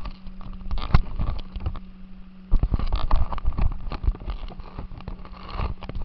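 RC car driving over rough ground, heard from its onboard camera: irregular knocks and rattles from the chassis and wheels over a steady low hum.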